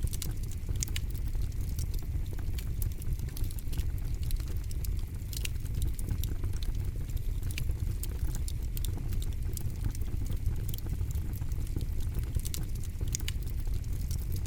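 Campfire burning with a steady low rumble of flame and irregular sharp crackles and pops from the burning wood.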